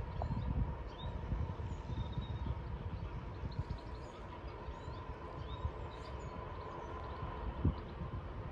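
A train running on the line, a steady low rumble with a faint even whine, while small birds chirp.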